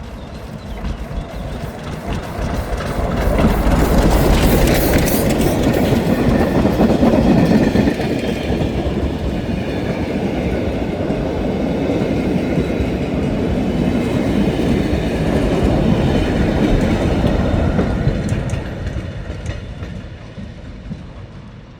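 A heritage train on a narrow-gauge line passing close by, its wheels clattering over the rail joints. The sound builds over a couple of seconds, holds loud for most of the pass, then fades away near the end.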